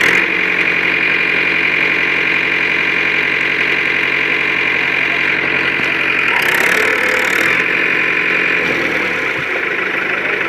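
Tractor engine running steadily. About six seconds in a brief hiss sounds, and for the next few seconds the engine note wavers in pitch before settling again.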